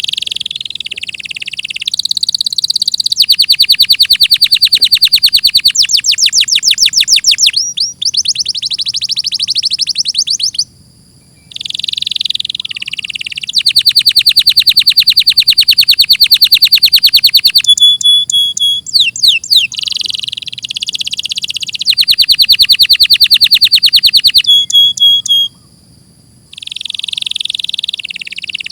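Domestic canary singing: long phrases of very fast trills and rolls with a few clear high whistled notes between them. The song breaks off briefly about ten seconds in and again near the end.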